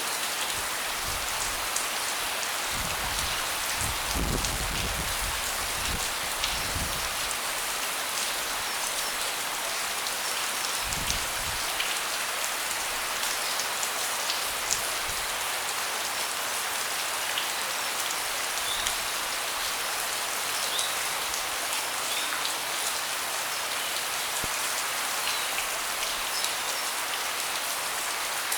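Steady rain falling on a deck: a dense, even hiss full of the fine ticks of single drops. A few soft low rumbles come in the first several seconds and once more around ten seconds in.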